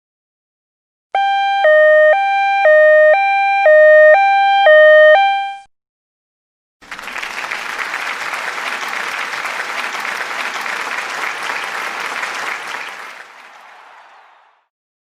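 An electronic two-tone signal switching back and forth between a higher and a lower pitch for about four seconds. After a short pause, a round of applause starts and fades away.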